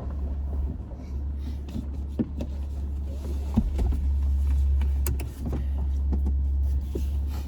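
Car engine running at idle: a steady low rumble, with scattered light clicks and knocks over it.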